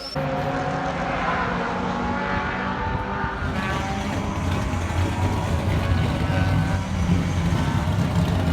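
Racing car engine running loudly at fairly steady revs. It cuts in abruptly just after the start.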